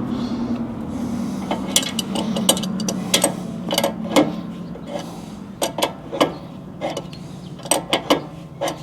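Metal hand tools (wrenches and sockets) being handled and worked, with irregular sharp clicks and clinks, over a steady low hum that fades near the end.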